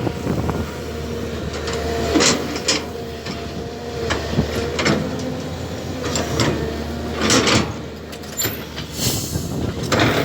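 Excavator at work: its engine runs under a steady whine, with repeated metallic clanks and knocks.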